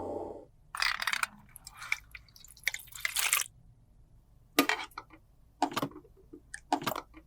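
A small motor's steady hum cuts off right at the start, followed by about six short, crisp handling noises a second or so apart as makeup is worked by hand.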